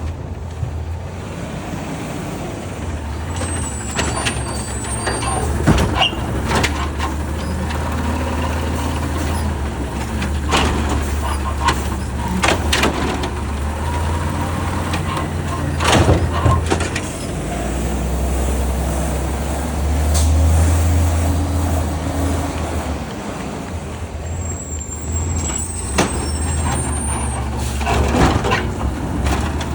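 Garbage truck engine running steadily, with repeated sharp clanks and bangs and two brief high squeals, one a few seconds in and one near the end.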